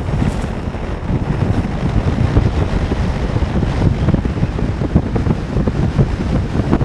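Strong wind buffeting the microphone: a rough, gusty rumble with no break.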